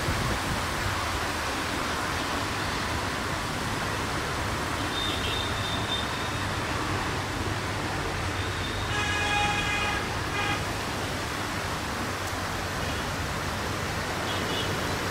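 Steady running noise of a meter-gauge passenger train moving away down the track. About nine seconds in, a horn sounds for just over a second, followed by a short second blast.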